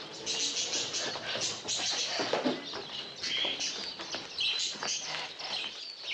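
Many caged birds chirping and twittering at once, a busy, continuous chatter of short overlapping calls.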